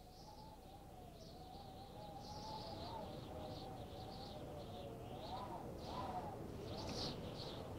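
Birds chirping, fading in gradually, over a continuous wavering tone.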